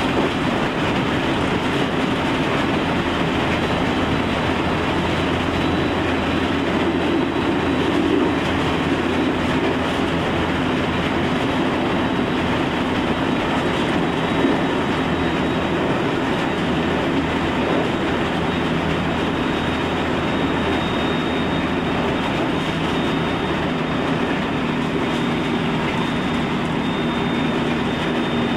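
Special Rapid Service electric train running between stations, heard from inside the front passenger car: a steady rumble of wheels on rail with a low, even hum.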